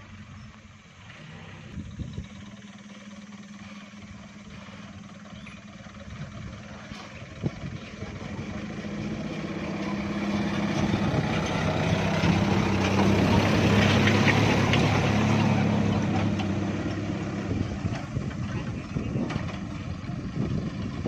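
Engine of a loaded light truck running steadily, growing louder as it comes closer, loudest about two-thirds through, then fading as it moves away.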